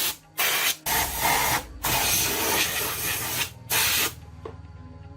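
Pressurised spray hissing in short blasts, with one long blast of about a second and a half in the middle and a last short blast about four seconds in; the blasts are typical of compressed air or a spray can used to clean machine parts.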